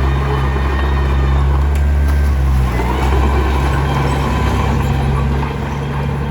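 Komatsu D21P bulldozer's diesel engine running steadily under work, its note shifting slightly about halfway through, with faint clinks from the tracks or stone.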